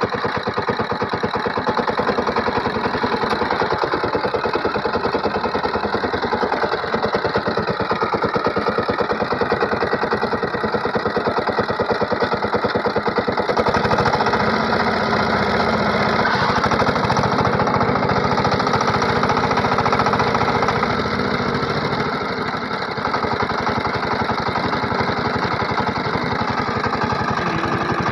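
Diesel engine of a SIFANG power tiller running steadily with fast, even firing pulses. About halfway through it gets a little louder and deeper, then briefly eases off near the end.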